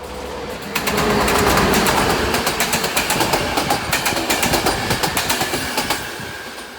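A train passing close by, its wheels clacking rapidly over the rail joints. It comes on suddenly about a second in and fades near the end.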